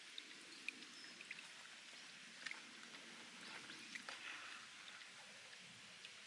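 Spring water trickling and dripping over rock: a faint steady trickle with many small, irregular drip ticks and a few louder drops.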